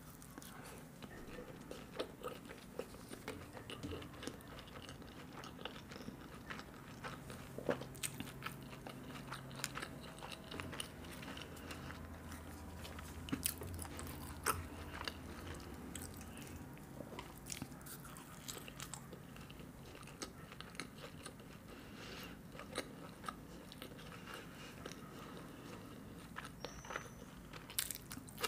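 Close-miked eating: a person chewing and biting Punjabi thali food (flatbread, curries, rice), with many small crunches and clicks scattered throughout.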